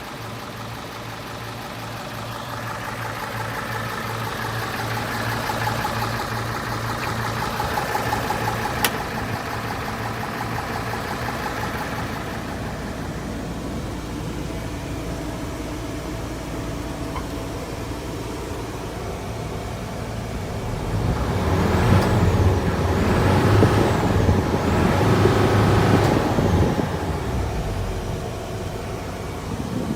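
Hino J08C diesel truck engine running. It builds gradually in the first eight seconds, runs steadily, then gets louder and busier for about six seconds near the end before settling back, as when the throttle is raised and released.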